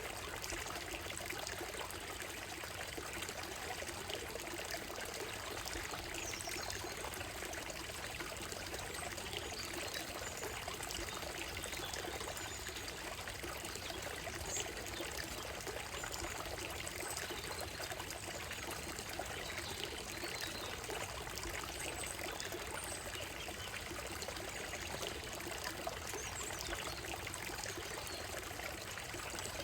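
Shallow stream running over a gravel and stone bed, a steady trickling and pouring of water. Faint, brief bird calls come through now and then above it.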